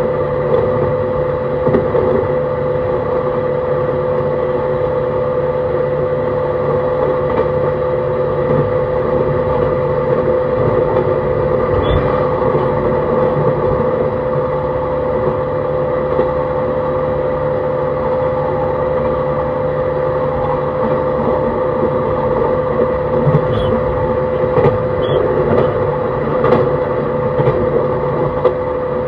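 JR East E131 series 600-subseries electric multiple unit running at a steady speed, heard from inside the car: a constant rumble with a steady, unchanging tone. A few short clicks come over it late on, such as wheels passing rail joints or points.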